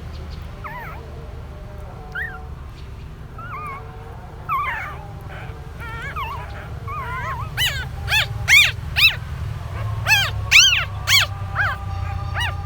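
Puppies whimpering and squealing in a string of short, high, arching cries, sparse at first and then louder and quicker in the second half, over a steady low hum.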